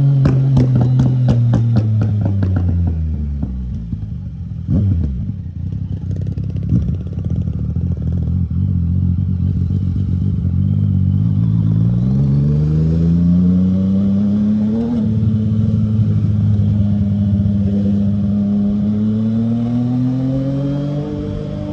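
Yamaha MT-09 three-cylinder engine through an Akrapovic exhaust. Off the throttle it crackles and pops for the first few seconds, then holds a low pitch and pulls up in pitch. A gear change drops the pitch about fifteen seconds in, and it climbs again near the end.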